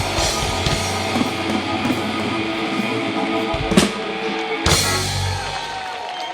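Live rock band playing the closing bars of a song: sustained electric guitar and bass under drums, with two heavy drum-and-cymbal hits about four and five seconds in, after which the music thins out near the end.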